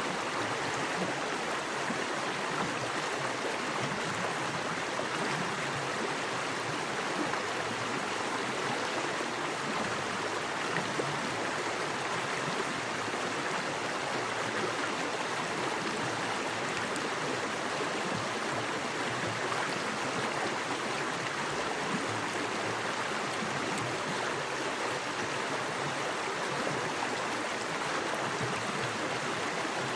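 Small forest creek with fast water rushing and splashing over rocks, a steady, even rush.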